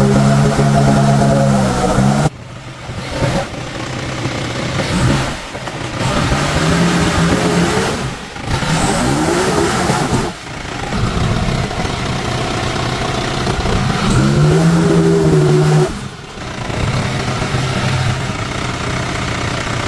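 Motor vehicle engine running and revving, its pitch rising and falling, in several short stretches that change abruptly.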